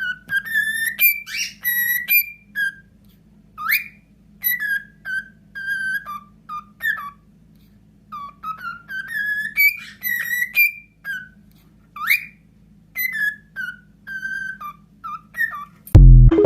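A pet bird whistling a string of short, clear notes, several of them sliding up or down, in phrases with short pauses. A steady low hum runs underneath, and a loud thump comes near the end.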